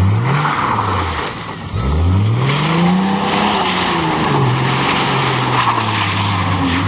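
Car engine revving hard while its wheels spin in mud, over a steady hiss of spinning tyres. The revs surge and fall back: they dip about a second and a half in, climb again, hold fairly steady, then drop near the end.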